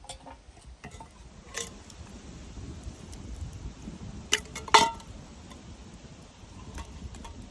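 A few sharp metallic clinks of kitchenware, the loudest a little past halfway with a brief ring, over a low steady background rumble.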